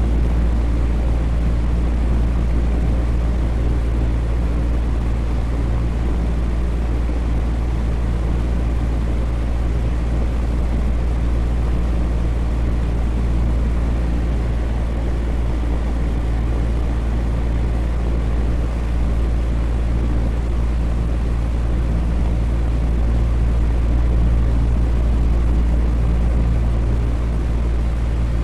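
Electric fan running steadily: a constant deep whoosh of moving air with a low motor hum under it.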